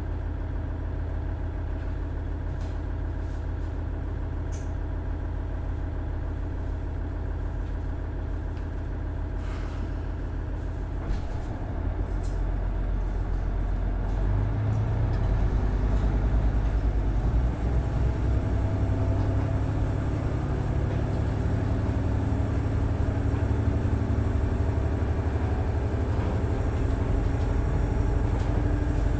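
Cummins DMF14HZA 420 ps diesel engine of a KiHa 110-series railcar running steadily, then taking power about twelve seconds in: it gets louder and its note climbs as the railcar accelerates.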